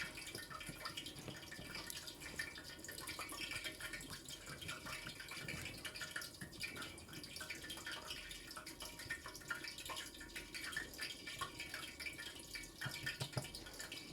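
Liquid cooking in a pot on the stove: a steady, faint, dense crackle of small bubbles.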